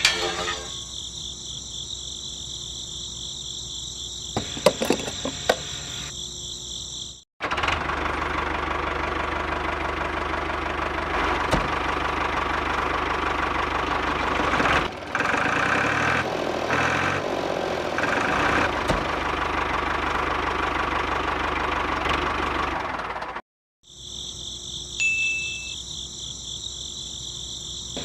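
A motor running steadily for about sixteen seconds, starting and stopping abruptly on cuts, with a change in its sound about halfway through. Before and after it, a high steady chirring like crickets, with a few clicks.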